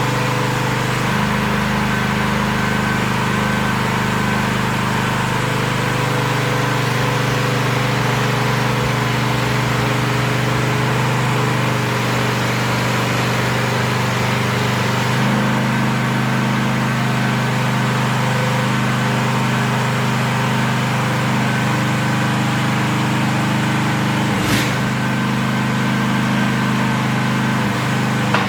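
Small engine of an AGT H13R mini excavator running steadily. Its note shifts slightly a few times, and there is one brief click near the end.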